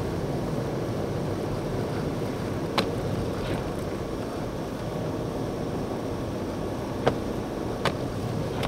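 Blizzard wind blowing steadily, a constant low rushing noise, with a few sharp clicks about a third of the way in and twice near the end.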